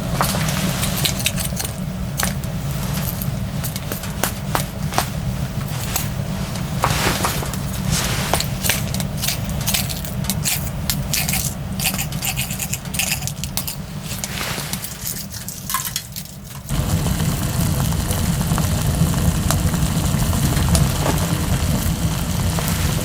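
Clicks, clinks and scrapes of small items being handled over a steady low rumble; the rumble abruptly gets louder about 17 seconds in.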